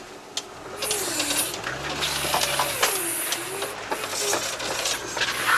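'Veter' all-terrain vehicle crawling over rough snowy ground, heard from inside the cab: the engine's pitch rises and falls, with frequent knocks and rattles and short bursts of hiss.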